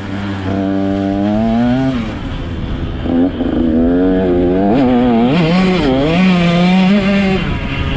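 125 cc motocross bike engine revving as it is ridden: the pitch holds and climbs slightly, drops off about two seconds in, then rises and falls over and over through the second half.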